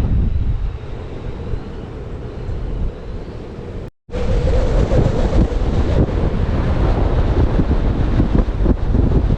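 Strong wind buffeting the microphone as a gusty low rumble. The sound cuts out for a moment about four seconds in, then the buffeting comes back louder.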